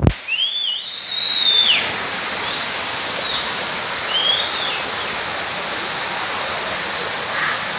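Steady heavy rain hissing, with a bird calling three times in the first half, each call a whistle that rises and then falls.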